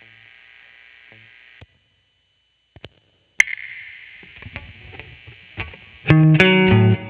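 Squier Vintage Modified Jaguar electric guitar through a distorted amp: a held note dies away into amp hiss, which cuts out for nearly two seconds. A sharp click brings the hiss back, a few faint picked notes follow, and about six seconds in a loud chugging riff starts.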